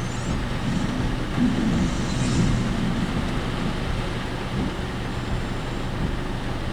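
Work vehicle's cabin noise while driving: steady engine hum and road noise with the body rattling, slightly louder for a moment about a second and a half in.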